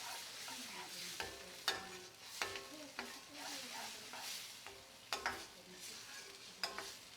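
Chicken Balti curry sizzling in a hot pan as it is stirred, a spoon knocking against the pan with a short metallic ring about half a dozen times.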